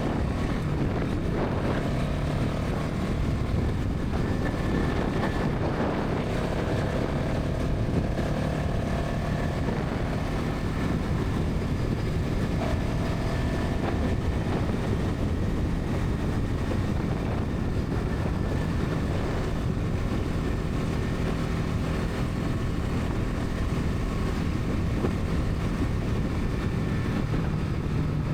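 Bajaj Pulsar NS 200's single-cylinder engine and exhaust running at a steady highway cruise, with only slight changes in pitch. Wind rushes over the microphone.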